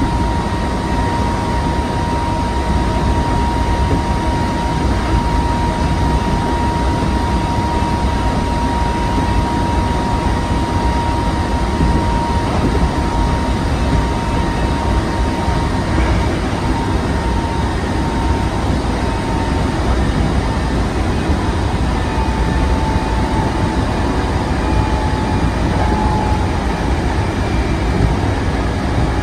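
Hankyu 7000 series electric train running at speed, heard from inside the car: a steady rumble of wheels on the track with a thin whine that drops slightly in pitch about two-thirds of the way through.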